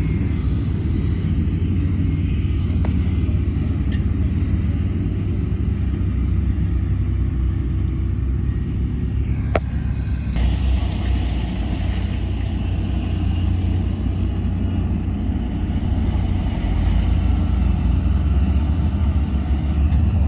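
Heavy diesel construction machinery running steadily with a deep engine rumble, and a single sharp click or knock about halfway through.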